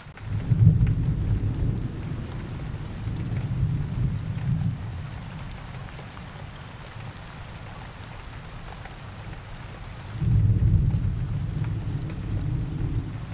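Steady rain with two low rolls of thunder: the first swells just after the start and fades over about five seconds, the second comes in about ten seconds in and runs on to the end.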